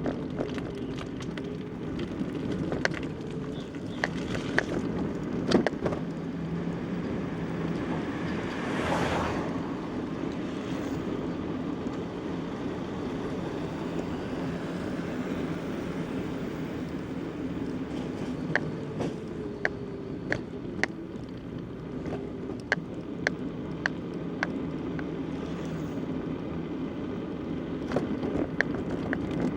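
Riding a bicycle over a country road: a steady rumble from tyres and road, with scattered sharp rattles and clicks. A brief rush of noise comes about nine seconds in.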